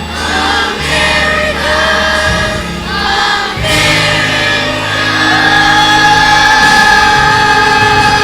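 School choir singing with band accompaniment. The closing phrase settles about five seconds in onto a long held final chord.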